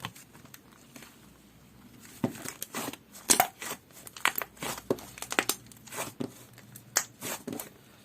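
Slime being pressed, stretched and squished by hand, giving a run of sticky clicks and crackling pops that starts about two seconds in and carries on almost to the end.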